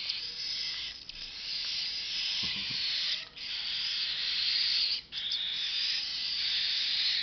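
Baby cockatiel chicks begging with raspy, hissing calls that run on for a second or more at a time, broken by short pauses.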